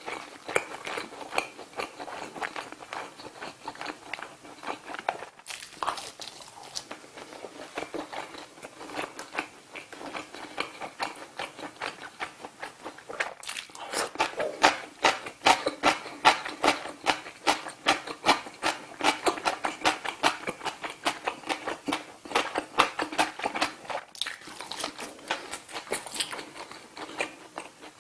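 Close-miked chewing of grilled saury: quick, clicky mouth sounds. They grow louder and faster about halfway through, at roughly three chews a second.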